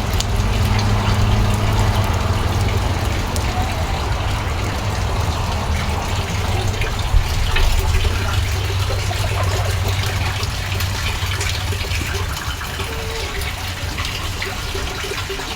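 Rainwater pouring and gushing steadily into a rainwater collection tank while rain falls.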